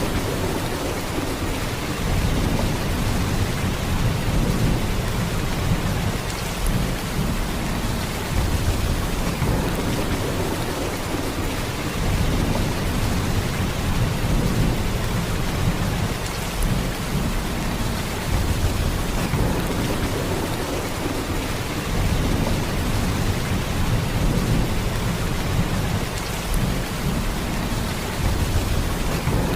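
Heavy rain falling in a steady downpour, a dense even hiss over a deep low rumble that swells and eases every few seconds.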